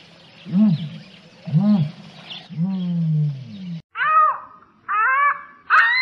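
Animal calls: three low, drawn-out calls that rise and fall in pitch about a second apart, then after an abrupt cut nearly four seconds in, a run of higher, shorter honking calls.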